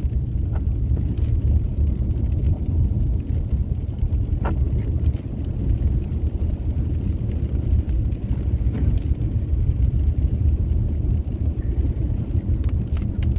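Steady low rumble inside a car's cabin with the engine running, with a few faint clicks.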